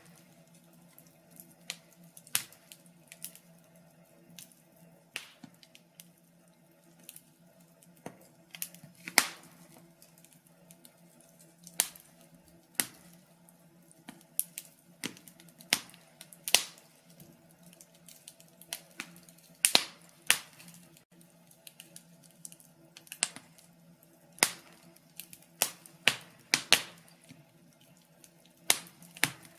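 Wood fire crackling in a fireplace: irregular sharp pops and snaps, one or two a second, some louder than others, over a faint steady low hum.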